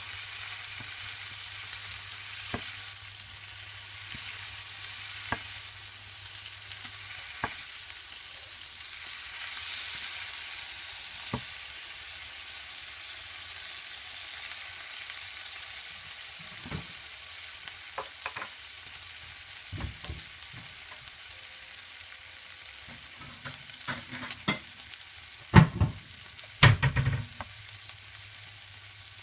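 Bacon-wrapped bread frying in a pan: a steady sizzling hiss with scattered pops. Near the end come a few louder knocks of a wooden spatula against the pan as a roll is moved.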